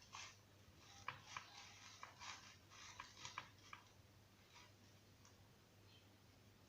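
Faint small clicks and soft rustles in the first four seconds, then quiet room tone: quail eggs being rolled through batter and breadcrumbs in a bowl.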